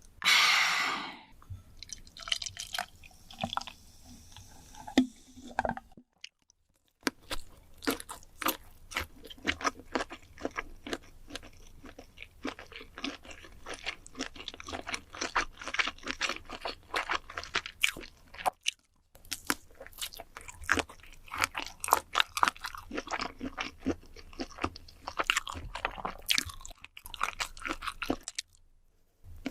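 Close-miked chewing and crunching of food, a dense run of wet smacks and crisp crunches. It opens with a short loud hiss.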